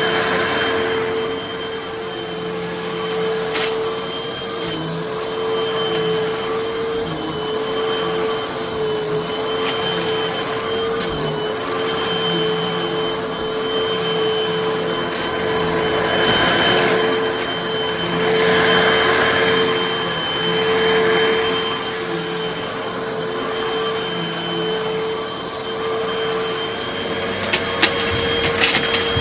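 Hoover vacuum cleaner running with a steady motor whine, its rush of air swelling and easing as it is pushed back and forth. Near the end come a few sharp crackles of small crunchy debris being sucked up.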